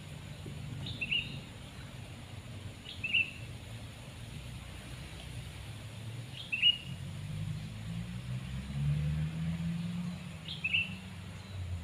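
A bird calling four times, each a short chirp falling in pitch, spaced a few seconds apart. Under the calls a low rumble runs throughout and grows louder in the second half.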